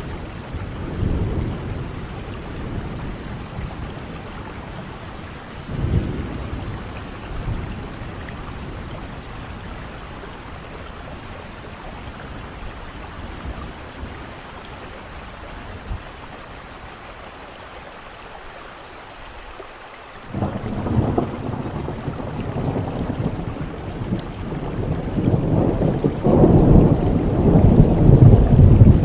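Steady heavy rain with rolling thunder: a few short rumbles in the first seconds, a quieter stretch, then a sudden clap about two-thirds of the way through that grows into a long, loud rumble near the end.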